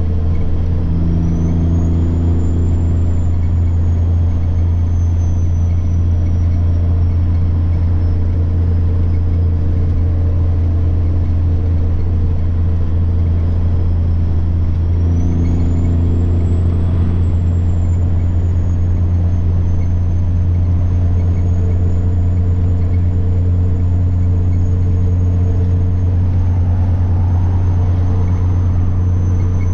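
Semi truck's diesel engine running with a steady low drone under a high turbocharger whine. The whine rises about a second in, eases off, rises again around halfway and then slowly falls.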